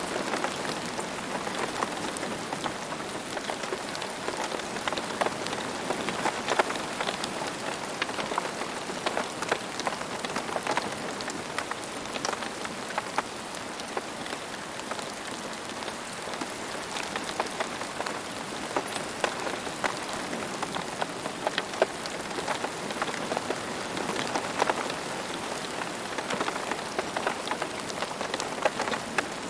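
Steady rain falling, with a continuous hiss and many individual drops ticking sharply on a hard surface.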